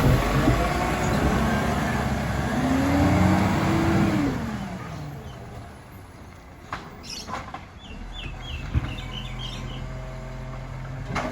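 Iveco Stralis garbage truck's diesel engine pulling away, its pitch rising and then falling before it fades into the distance about four seconds in. A few short bird chirps follow near the middle.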